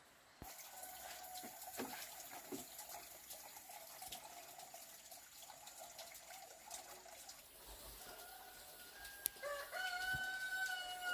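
A rooster crowing once, a long held crow that starts about three-quarters of the way through, over a steady background hiss with scattered small clicks.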